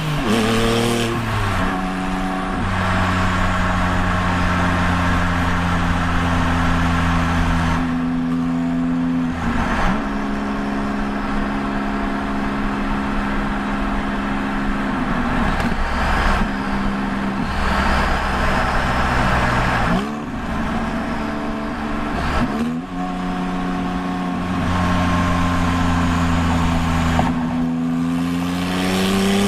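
2001 Porsche 996 911 Turbo's twin-turbo flat-six through custom straight-pipe exhaust, heard from the cabin while driving. It holds steady revs for several seconds at a time, broken by brief dips about five times, and revs up again near the end.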